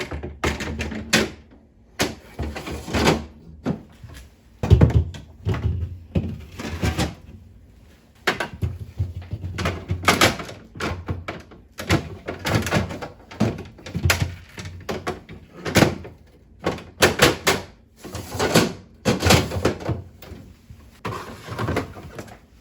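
Irregular knocks, thuds and short scrapes of containers and items being handled and set down on refrigerator shelves during cleaning.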